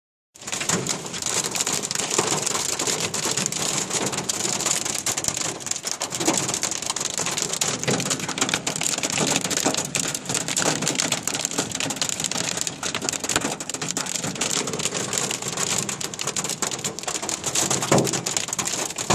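Hail and heavy rain pelting a car, heard from inside the cabin: a dense, steady clatter of impacts, with a few harder hits standing out.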